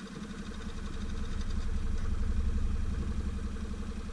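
Stels Guepard 850 ATV engine running steadily near idle, its low rumble swelling a little and then easing.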